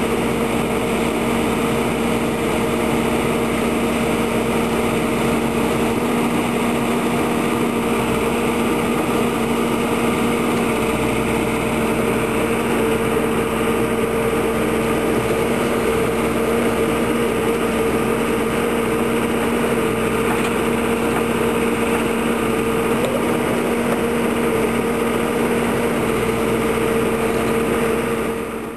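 The LiuGong 766 loader backhoe's 100 hp Perkins diesel engine idling steadily, a constant hum with a steady drone.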